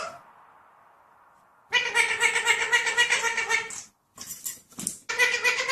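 A cat yowling in long, drawn-out calls at a steady pitch with a rapid pulsing wobble: one call after a quiet second and a half, a few short sounds, then a second call near the end.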